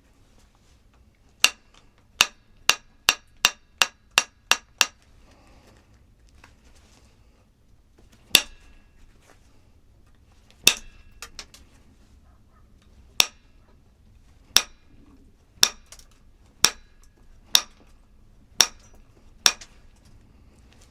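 Sharp, ringing strikes of hard objects: a quick run of about nine, then single strikes about a second apart.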